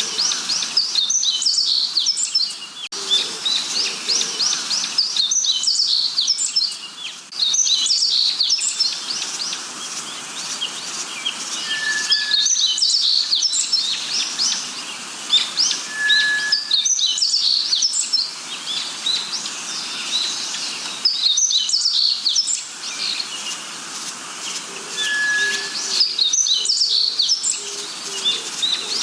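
Forest birds chirping in high, rapid phrases that recur every four to five seconds, over a steady hiss of background noise. A short, clear whistled note comes in three times, and there are faint lower notes near the end.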